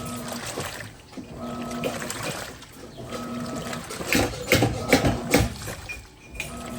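Top-loading washing machine (Electrolux Turbo Capacidade Premium 15 kg) agitating a load: water sloshes and splashes in repeated surges as the agitator swings back and forth. A steady motor hum comes and goes between the surges.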